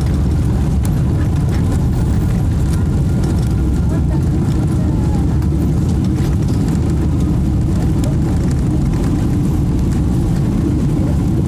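Steady low rumble inside the cabin of a Boeing 777-300 rolling on the ground just after landing, engine and wheel noise carried through the fuselage.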